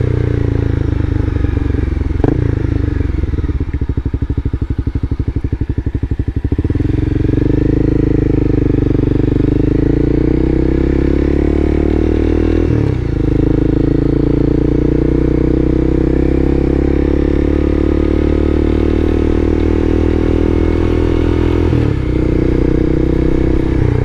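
Motorcycle engine at low revs with a slow, even firing pulse, then pulling away with its pitch climbing as it accelerates. It shifts gear about halfway through and again near the end.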